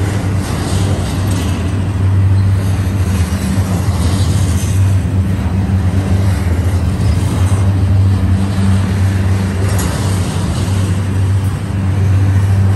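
Double-stack intermodal container train rolling past at close range: a steady rumble of steel wheels on rail from the passing well cars.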